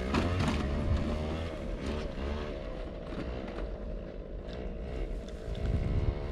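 Moped engine running on a dirt track, its pitch wavering up and down as the rider works the throttle.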